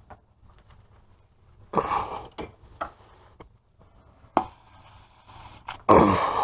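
Hand tools and metal parts being handled and knocked together during hub work: a short clatter about two seconds in, a single sharp knock after four seconds, and a louder, longer clatter near the end.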